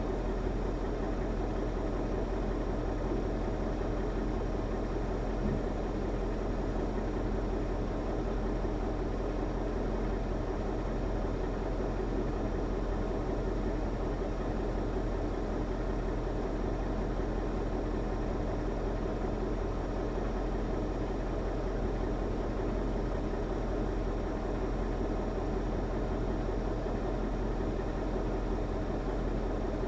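Diesel engine of a KAMAZ timber truck running steadily at an even speed, with no change throughout.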